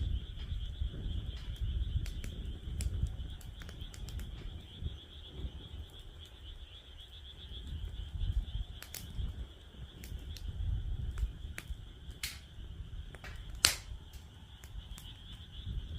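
Wood fire in a fire pit crackling, with scattered sharp pops, the loudest near the end. A steady high-pitched animal chorus runs underneath, with a low rumble beneath that.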